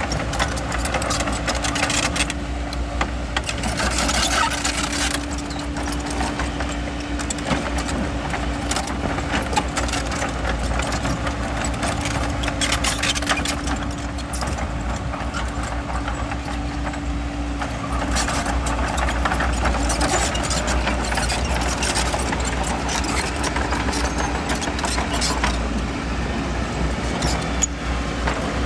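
Bulldozer's diesel engine running steadily with a deep drone. Frequent clanks and scraping of metal and stone are heard throughout.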